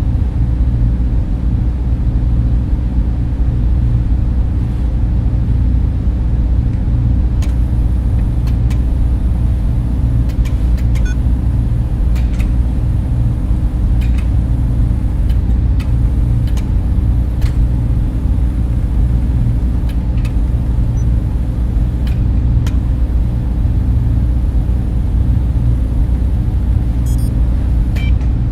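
Data center server cooling fans running with a steady, deep rushing noise, with a few faint ticks now and then.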